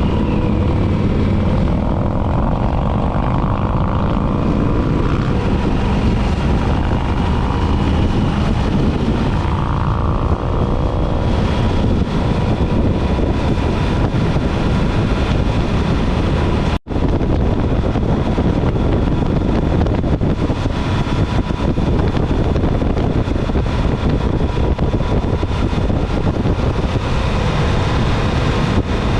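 Motorcycle riding at speed: steady engine drone and rushing wind on the microphone. The sound drops out for an instant about 17 seconds in.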